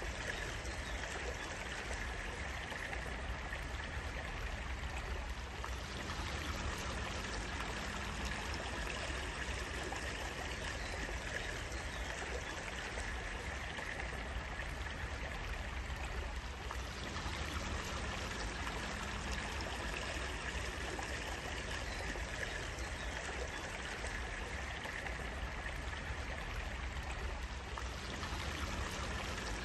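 Steady flowing water of a stream, an even, unbroken rush.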